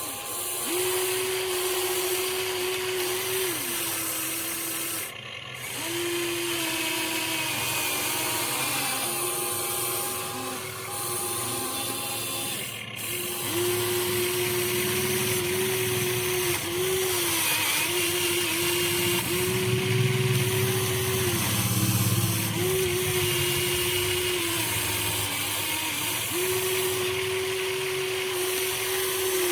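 Huina 1593 RC excavator's motors whining at a steady pitch that repeatedly dips and picks up again as the machine's movements start and stop. A low rumble joins in about two-thirds of the way through.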